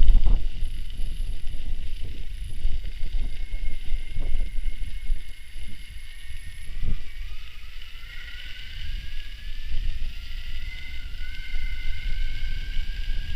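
Electric mountain bike motor whining while riding, its pitch rising slowly in the second half as the bike speeds up, under low wind buffeting on the microphone.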